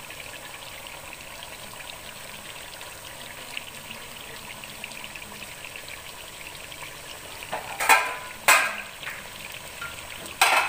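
Chicken pieces and ground spices frying in oil in a pot, sizzling and crackling steadily as the masala is browned. About eight seconds in, two brief loud clatters break through, with another just at the end.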